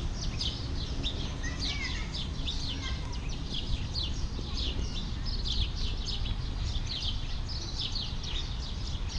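Many small birds chirping continuously in rapid, short down-slurred notes, with a few lower, curving calls in the first few seconds, over a steady low rumble of background noise.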